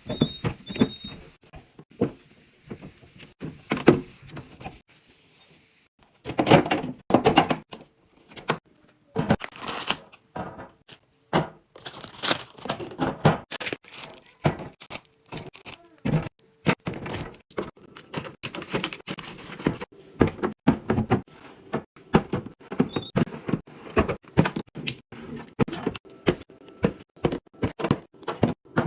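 Plastic and glass fridge containers, lids and drawers being set down, clicked shut and slid in and out. It is an irregular run of knocks, clicks and thunks, with a few longer rustling stretches.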